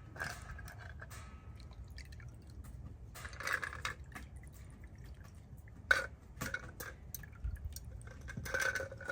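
A mixed cocktail being poured into glasses in a few short spells, with dripping and small knocks.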